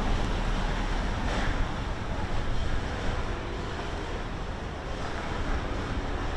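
Steady outdoor city-park ambience: an even low rumble with a hiss over it and no single event standing out.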